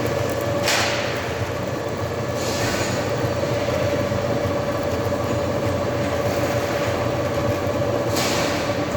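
Metal lathe running while cutting a thread: a steady mechanical hum with a held whine, and brief louder rushes of hiss about a second in, near three seconds and near the end.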